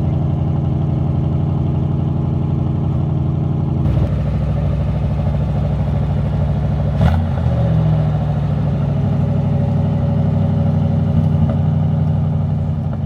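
1974 Chevrolet El Camino's engine running steadily after being started from its winter layup, with a brief shift in its note about seven seconds in.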